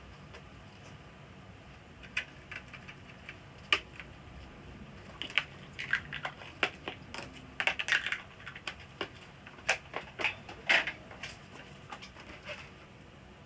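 Irregular clicks, taps and light clatter of hands handling small plastic and metal parts while taking apart a flat-screen TV. The sounds are scattered, with a few sharper clicks along the way.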